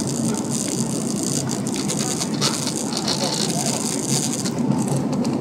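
Inside the cabin of a Boeing 767-300ER airliner: steady jet engine and airflow noise with rattling and clicking of the cabin fittings.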